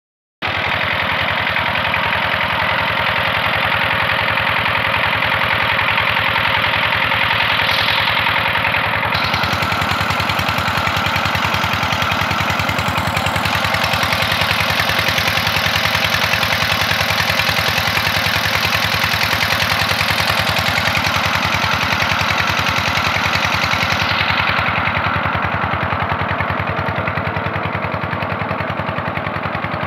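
Diesel engine driving a tubewell pump, running steadily with an even, rapid firing beat.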